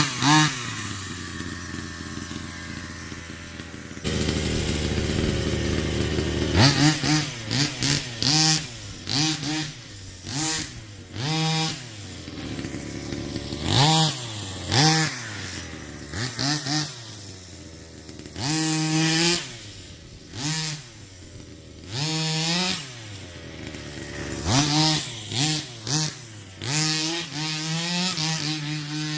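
Rovan Baja 45cc two-stroke engine, with ported transfers and a 45cc side-pipe exhaust, running steadily at first, then revved in many quick throttle blips that rise and fall in pitch, with a longer held rev near the end.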